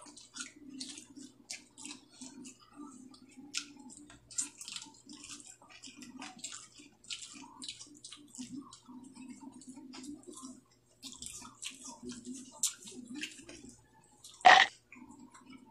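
Close-up eating sounds: several people chewing rice and dried fish eaten by hand, with quick irregular wet smacks and small clicks. One louder, brief knock near the end.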